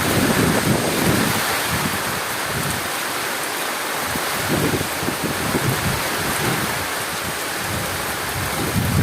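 Heavy rain falling steadily, with low rumbles of thunder that swell and fade a few times.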